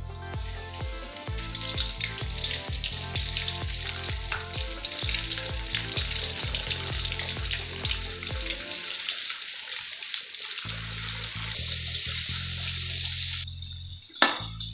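Battered chicken pieces frying in hot oil in a wok: a dense crackling sizzle that builds about a second in as the pieces go into the oil, over background music. Near the end the sizzle stops abruptly and a metal spatula gives one sharp knock against the wok.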